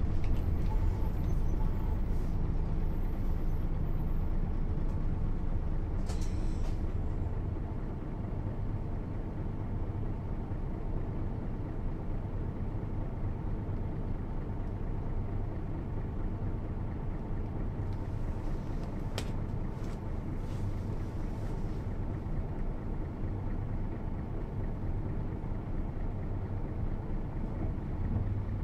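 Mercedes-Benz O 407 bus's six-cylinder diesel engine running steadily at low revs, with a short hiss about six seconds in and a sharp click about two-thirds of the way through.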